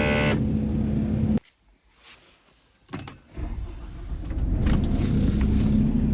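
Merlo telehandler's engine running, cutting out briefly about a second in. When it returns a little later, a high warning beep repeats steadily, a little under twice a second. This is the seat-sensor warning, sounding because the seat-switch wires are disconnected and the machine thinks nobody is in the seat.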